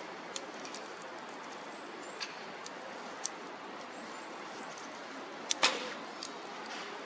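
Wood fire crackling, with scattered sharp pops and one louder crack about five and a half seconds in.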